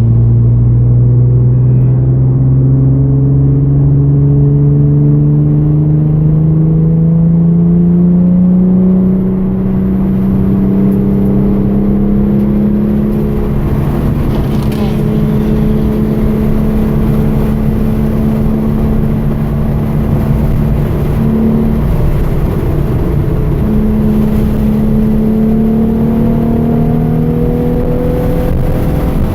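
Hyundai Genesis Coupe's 3.8-litre V6 engine pulling under load. Its pitch climbs slowly for about nine seconds, then eases off and holds steady. It dips briefly about two-thirds of the way in, then climbs again near the end.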